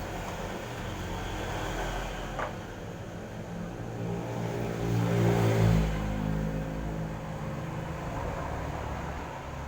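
Single-tub washing machine's electric motor running with a steady hum, growing louder about five seconds in and then easing back.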